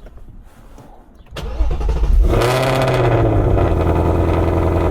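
Ford Mustang GT's 5.0 L Coyote V8, fitted with Kooks catless longtube headers, cranking and starting: it catches about two seconds in, flares up in pitch and falls back, then settles into a loud steady idle.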